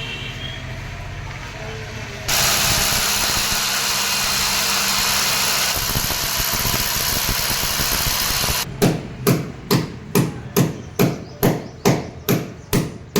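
A power tool runs steadily and loudly for about six seconds and cuts off, then a hammer strikes in an even rhythm, about two blows a second, during the fitting of an air conditioner.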